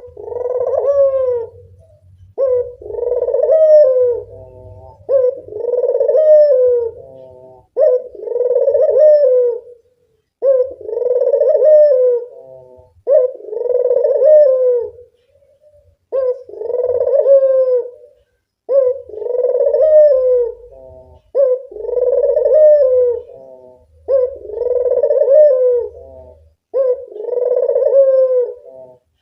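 Local puter dove (a collared dove) cooing over and over, about one phrase every two seconds. This is a lure call meant to set other puter doves calling.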